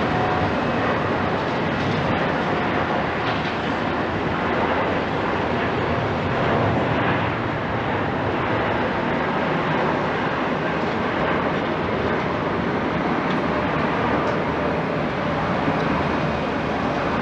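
Jet engines of a Boeing 787-9 airliner running, a steady, even roar that stays level throughout.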